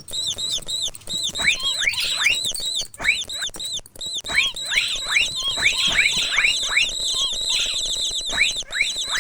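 Mouse squeak sound effects: a rapid run of short, high squeaks repeating several times a second, mixed with quick downward-sliding chirps, with a brief lull about three to four seconds in.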